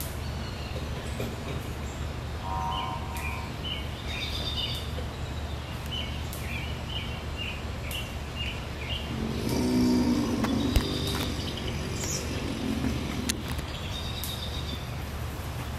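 Outdoor ambience: a steady low hum, with a small bird chirping a quick run of short notes over several seconds. About ten seconds in a brief louder low sound passes, with a single sharp click.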